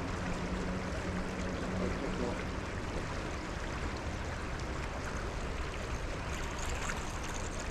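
Steady wash of water and wind noise, with a low steady hum that fades out about two seconds in.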